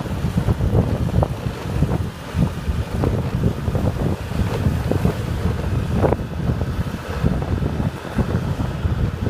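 Wind buffeting the microphone of a rider on a moving motorbike: a heavy, uneven low rumble with a few short ticks.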